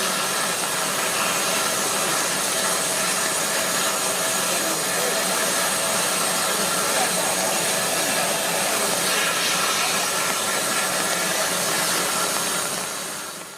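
Steady rushing noise of a train on the move, beginning to fade out near the end.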